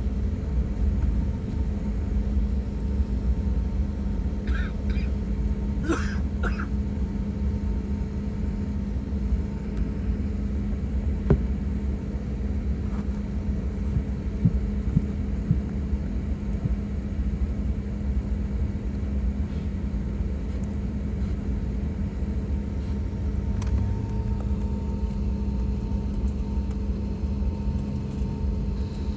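Steady airliner cabin noise: a deep rumble with a constant hum from the jet engines and air systems, with a few brief higher sounds about five to seven seconds in.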